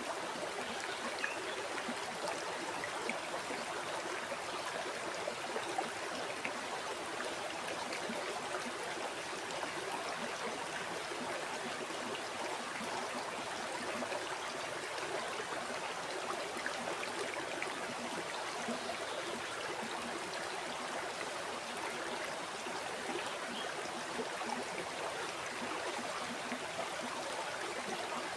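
A river or stream flowing steadily, a continuous rushing and trickling of water over rocks.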